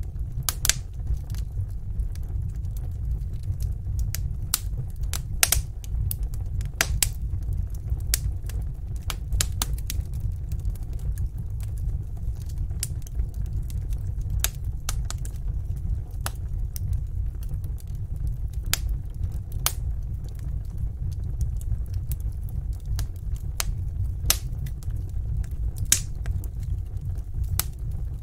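Fire burning in a fireplace, crackling: irregular sharp pops and snaps, several a second at times, over a steady low rumble.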